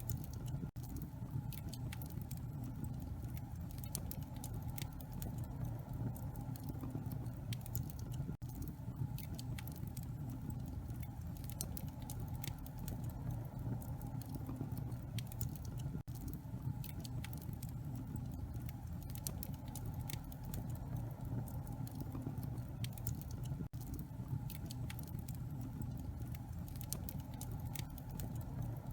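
Wood fire in a fireplace crackling: dense, irregular sharp pops and snaps over a low steady rumble. The sound dips out briefly every eight seconds or so.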